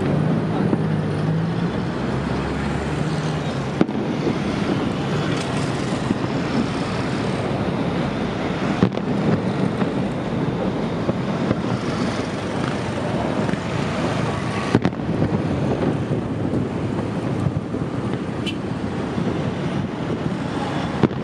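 Steady outdoor noise of wind on the microphone and road traffic, with a few faint sharp bangs.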